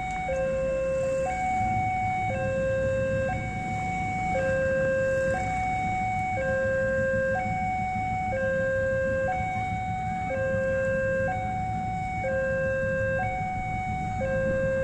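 Railway level-crossing warning alarm: an electronic two-tone signal alternating steadily between a lower and a higher tone, each held about a second, warning that a train is coming. A low steady rumble runs beneath it.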